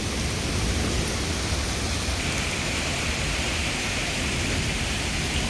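Heavy thunderstorm rain pouring steadily, with a low wind rumble on the phone's microphone; the hiss of the rain grows a little stronger about two seconds in.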